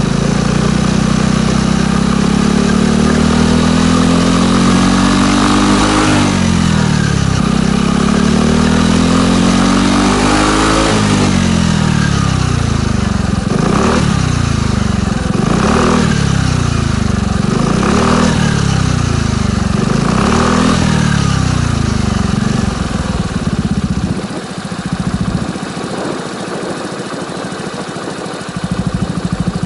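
Suzuki Address 125 scooter's single-cylinder engine running through a BEAMS Power Classic Caboton full exhaust and revved while standing. Its pitch climbs steadily twice in long pulls, then it is blipped about five times roughly two seconds apart, then it drops back to a quieter idle a few seconds before the end.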